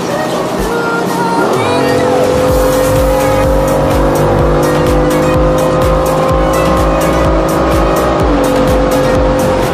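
BMW F82 M4's twin-turbo inline-six pulling hard under full acceleration: a quick rise in revs about two seconds in, then a long, slow climb in pitch that drops back near the end, as at an upshift. Music plays underneath.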